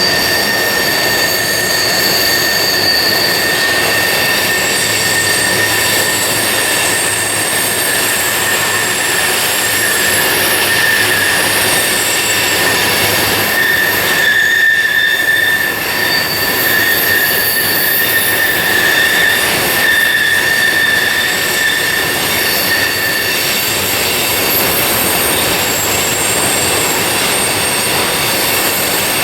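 Freight train rolling through a sharp curve, its wheel flanges squealing against the rail in several high, shifting tones over the steady rumble of the cars.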